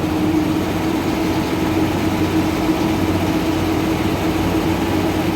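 Heavy truck diesel engine running steadily at idle, with an even low hum that does not change.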